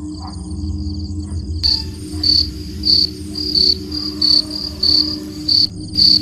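Crickets chirping in a steady pulsing series over a low steady hum. About a second and a half in, a hiss joins and the chirps grow louder, about two a second.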